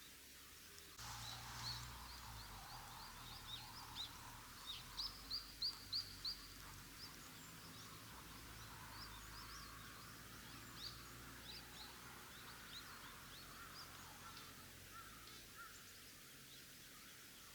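Birds calling, many short high chirps, with a run of about seven quick repeated notes about five seconds in. A faint steady background noise comes in about a second in.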